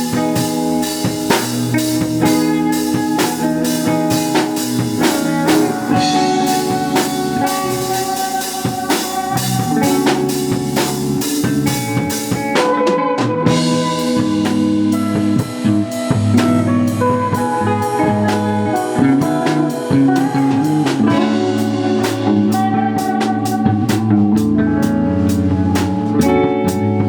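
Live rock band playing a song, with drum kit and guitar. The drums drop out briefly about halfway through, then come back in.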